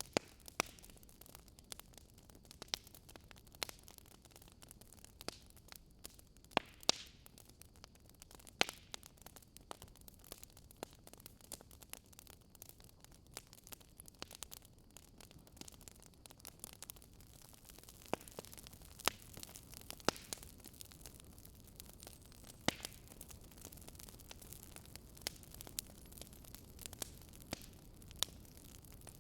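Wood fire crackling in a fireplace, with irregular sharp pops and snaps, a few of them louder. Under it is a steady hiss of snowstorm wind.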